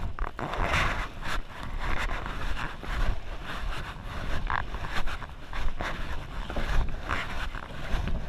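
Water rushing and splashing around a canoe as it surfs a wave, in repeated bursts, with wind rumbling on the microphone.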